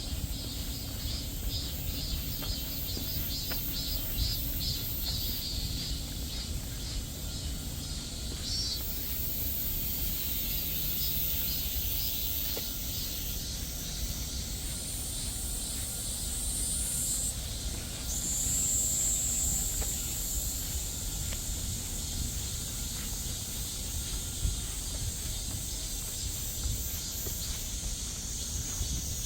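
Chorus of summer insects shrilling steadily at a high pitch, with a fast pulsing trill in the first several seconds, over a low rumble.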